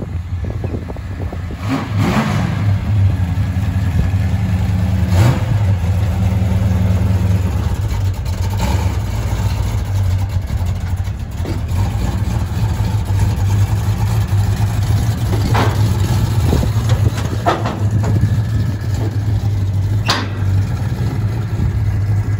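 Dodge Dart muscle car's engine idling with a deep, steady rumble, blipped up in a few brief revs.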